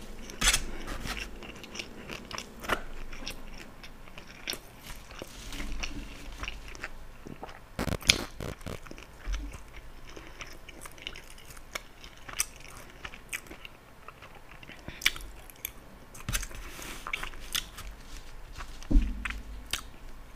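Close-miked chewing and biting of a steak and cheese sub on a soft roll: irregular mouth clicks and crunches, with a few louder sharp ones about eight seconds in and near the end.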